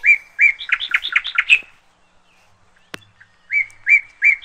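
A songbird singing the same phrase twice: each time a few level whistled notes, then a quick run of higher, rising-and-falling notes. A single sharp click falls between the two phrases.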